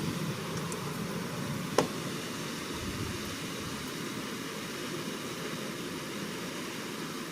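Steady rushing background noise with one sharp click nearly two seconds in.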